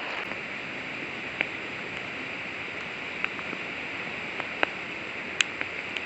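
Steady rush of river water, with a few scattered sharp ticks.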